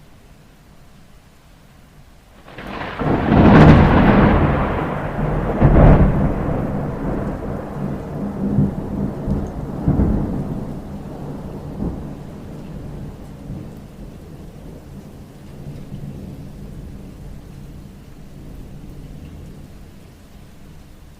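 A thunderclap breaks over steady rain about two and a half seconds in, cracking loudly with further peaks a few seconds later, then rumbling slowly away over about ten seconds while the rain goes on.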